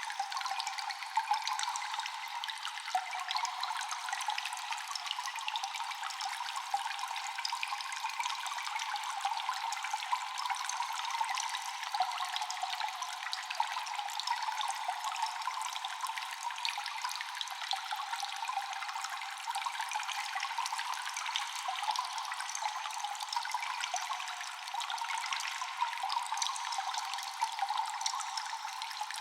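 Cave ambience: water dripping constantly, many small drops falling over a steady trickling hiss, with no deep sound beneath.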